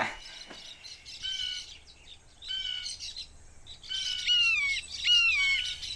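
A bird calling: about four short whistled calls, each sliding down in pitch, repeated roughly once a second, the last two louder than the first two.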